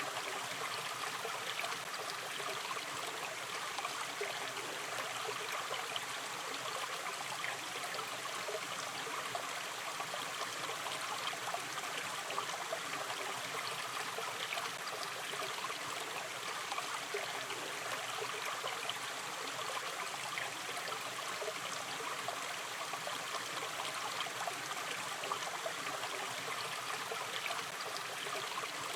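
Shallow river stream running gently, a steady babble and trickle of water with many small splashes.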